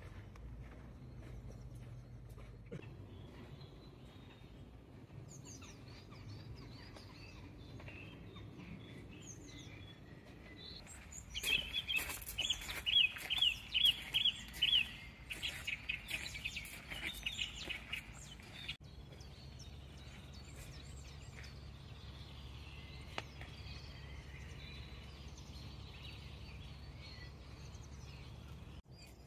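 Songbirds singing and chirping over a steady low background rumble. Midway, one bird close by repeats a short high note about three times a second for several seconds. This is the loudest sound.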